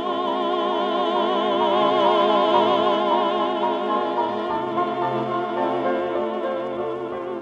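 A male singer holds the long final note of a sentimental art song with wide vibrato over a studio orchestra, swelling to a peak. About halfway through, the voice gives way to the orchestra's closing chords.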